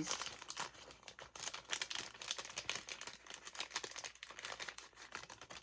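Paper rustling and crinkling in many small, irregular crackles, as sheets of a sticker and ephemera book are handled and turned.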